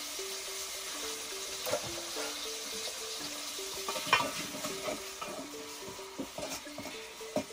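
Tomatoes and salt sizzling in a hot metal saucepan while a spoon stirs them, with scraping and a few sharp knocks of the spoon against the pot, the loudest about four seconds in.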